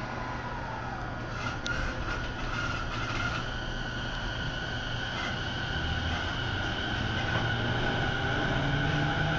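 Electric train heard from inside the carriage as it pulls away: a steady running rumble with motor whine tones slowly rising in pitch as it gathers speed.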